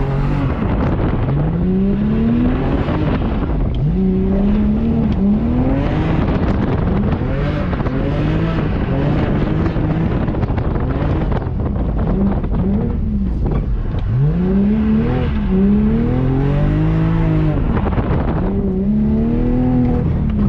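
Drift car's engine revving up and dropping back again and again as the throttle is worked through the turns, loud and continuous.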